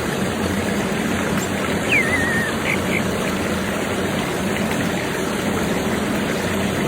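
Steady rushing noise like a running stream. About two seconds in, a bird gives a short whistle that falls and then wavers, followed by two brief high notes.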